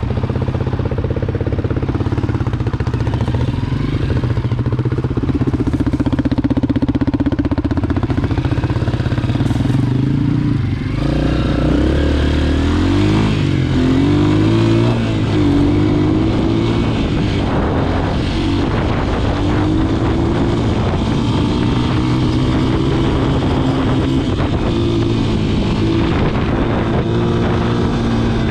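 Honda CRF230F dirt bike's single-cylinder four-stroke engine running under way, heard close up from the bike itself. Its revs hold fairly even at first, then rise and fall repeatedly from about eleven seconds in as the rider works the throttle and gears.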